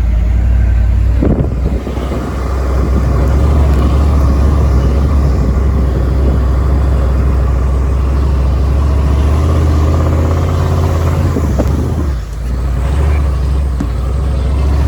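7.3 IDI turbo diesel V8 of a 1973 Ford F-250 running steadily under load in second gear through deep snow, with a brief drop in engine sound about two seconds in and again near the end.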